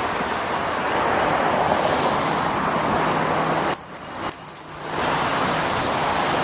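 Steady rushing noise of a bicycle riding on a wet road in the rain. About four seconds in it breaks off briefly, and a short high ringing sounds.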